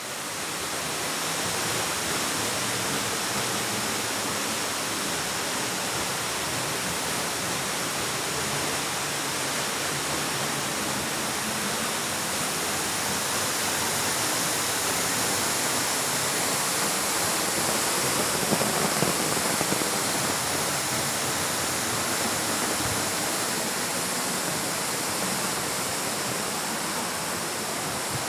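Waterfall rushing: a steady, unbroken wash of falling water that fades in over the first couple of seconds.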